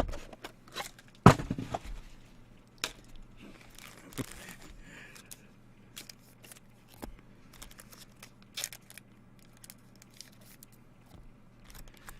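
Trading card packaging being crinkled and torn, with cards handled, in a run of scattered clicks and crackles; a sharp knock comes about a second in.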